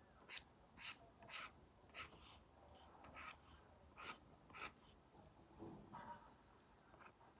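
Apple Pencil tip drawing on an iPad fitted with a paper-like screen protector: short scratchy strokes, about two a second.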